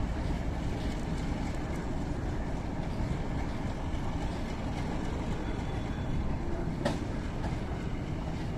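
Diesel-hauled freight train of covered wagons rolling past on the rails, a steady rumble of wheels on track, with one sharp click a little before the end.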